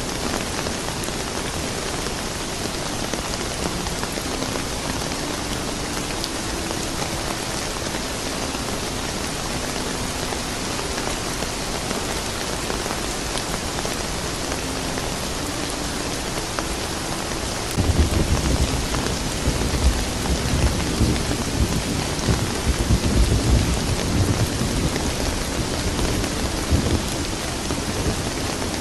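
Steady rain falling, an even hiss of drops. About two-thirds of the way in, a low thunder rumble rolls in and goes on for several seconds before fading.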